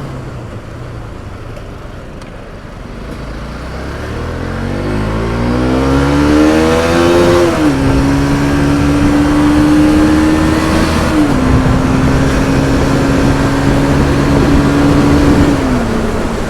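Motorcycle engine pulling away and accelerating: its pitch climbs for a few seconds, then drops sharply as it shifts up, holds steady, and drops again twice more at the later upshifts, over road and wind noise.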